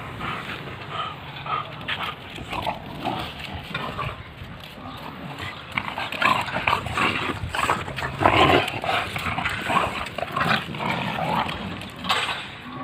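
British bulldog making a run of short, irregular sounds, loudest about eight seconds in.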